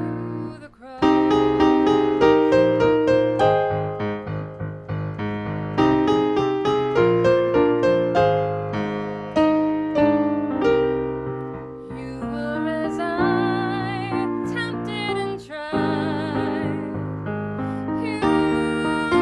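Piano playing a slow instrumental piece: chords and melody notes struck and left to ring out.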